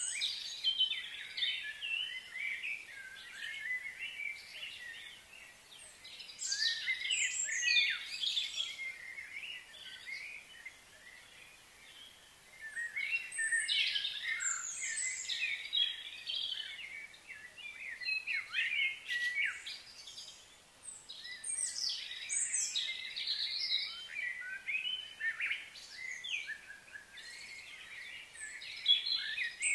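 Wild birds chirping and singing in repeated bursts of quick, sweeping calls, with short lulls between them.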